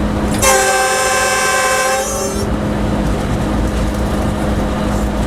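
Locomotive air horn sounding one steady blast of about two seconds, over the steady running rumble and hum of the locomotive cab.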